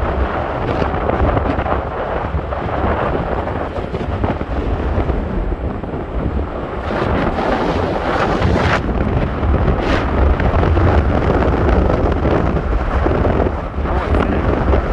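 Force 8 to 9 gale wind buffeting the microphone: a loud, deep rumble that surges and eases with the gusts.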